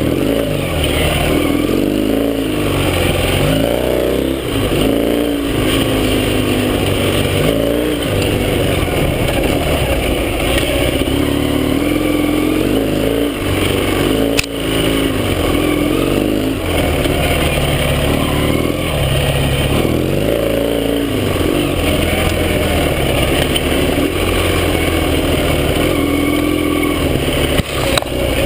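Yamaha XS650's air-cooled 650 cc parallel-twin motorcycle engine under way, revving up and easing off again and again as the bike is ridden. There is a single sharp knock about halfway through.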